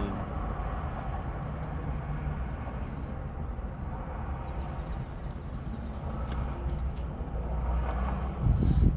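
A steady low rumble with a few light clicks, and a louder thump with rustling near the end.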